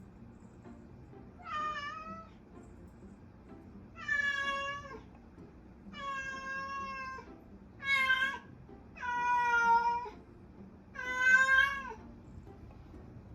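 Siamese-mix cat meowing over and over: six long meows, a second or two apart. These are demanding meows, made to get its owners to give it what it wants.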